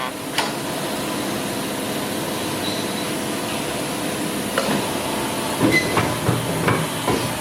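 Hydraulic CNC pipe bending machine running with a steady hum, a click about half a second in, then a series of clanks over the last three seconds as the bending mechanism moves.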